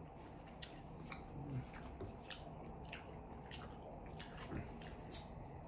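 Quiet, close-up eating sounds: chewing with soft, irregular clicks and squishes.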